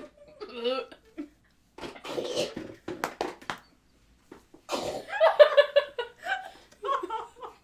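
Girls laughing and giggling in several short bursts, the longest and loudest run of laughter about five seconds in.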